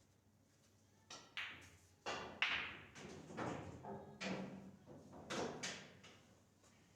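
Pool balls clacking: a series of about eight sharp knocks with short ringing tails over some five seconds, the loudest about two and a half seconds in.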